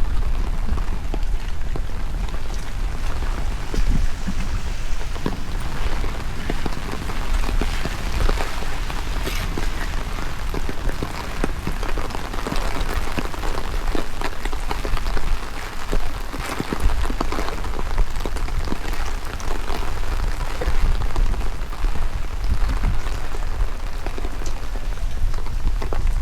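Heavy rain falling, with a dense patter of drops striking close by, over a low fluctuating rumble of strong wind buffeting the microphone.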